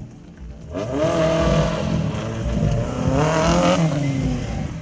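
Modified Suzuki Ignis race car's engine being revved, its pitch rising and falling several times. It starts quieter and picks up about a second in.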